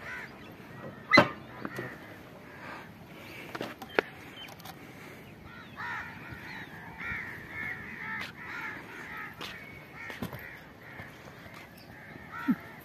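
Birds calling repeatedly with short, harsh calls, most often in the second half. A single sharp knock about a second in is the loudest sound, with a few fainter clicks later.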